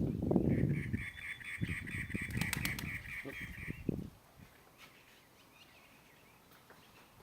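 A bird calling in a rapid run of repeated notes for about three seconds, over a low rumbling noise that stops about four seconds in.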